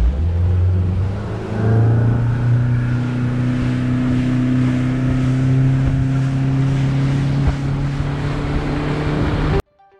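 Boat's outboard motor running under way: its pitch steps up about one and a half seconds in as it speeds up, then holds steady over a rush of wind and water noise. It cuts off suddenly near the end.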